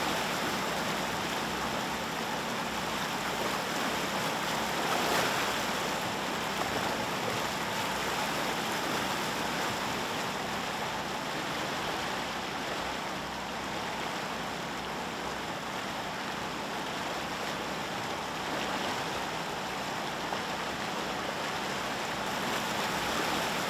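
Steady rush of fast-flowing water, an even hiss that holds at one level throughout.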